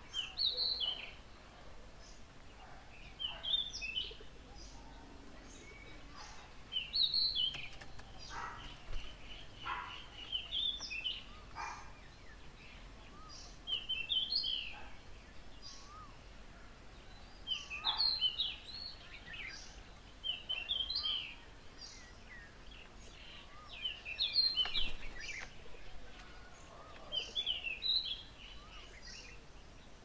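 Birds singing outdoors: one bird repeats a short, high chirping phrase every three to four seconds, with a few other bird notes in between and a faint steady background hiss.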